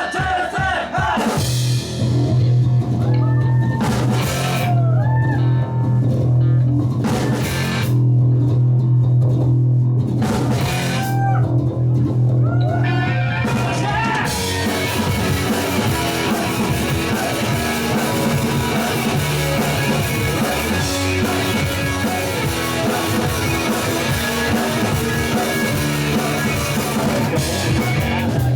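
Live rock band playing loudly: a held low bass drone under sliding, bending guitar notes, then about fourteen seconds in the full band with drums comes in.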